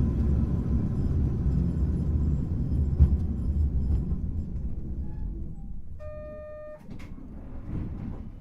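Hankai Tramway car 351 running, a low rumble of wheels and motors that fades away as the tram slows down. About six seconds in, a short electronic beep sounds, followed by a click.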